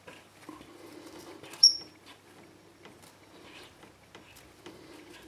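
Light handling noise: scattered small clicks over a faint low hum, with one sharp click and a brief high squeak about a second and a half in.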